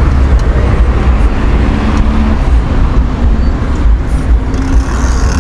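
Road traffic, cars and motorbikes, heard from a moving bicycle on a city street, under a heavy, fluttering low rumble.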